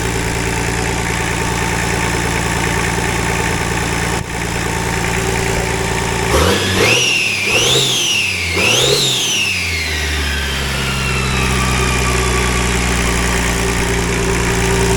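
Nissan RD28 six-cylinder diesel engine idling, then revved about six seconds in: the revs climb, peak twice, and fall back to a steady idle.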